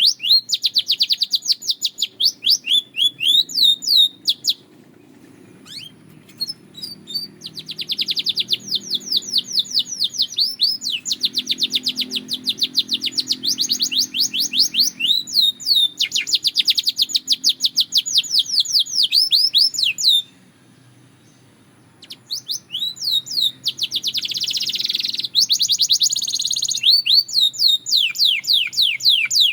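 Domestic canary singing long trills of fast repeated notes, phrase after phrase, with two short pauses, one about four seconds in and one about twenty seconds in. A faint low hum runs underneath.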